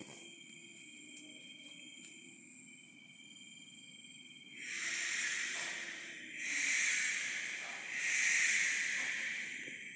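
Steady high-pitched trilling tones, like night insects, then from about halfway a harsh hissing sound that swells and fades in waves about every one and a half seconds.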